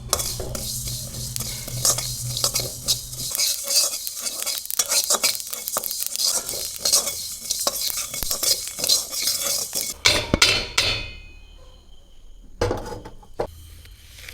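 A spoon stirring and scraping in a bowl, with rapid clinks. About ten seconds in comes a ringing clink, then it goes quieter with a few separate knocks.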